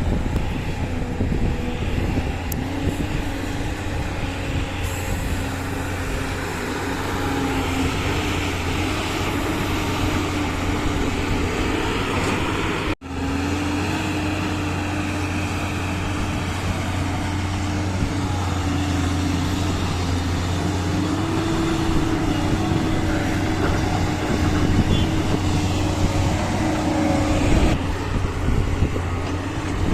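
Heavy diesel engines of earthmoving machines running steadily, the engine note drifting slightly up and down. The sound drops out for an instant a little before halfway, then carries on.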